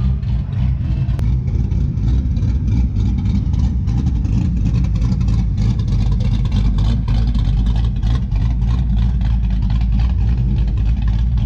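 A car engine running close by with a deep, steady low rumble.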